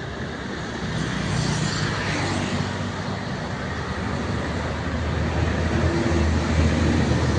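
Road traffic: vehicle engines and tyre noise going by steadily, growing louder about five seconds in as a vehicle comes closer.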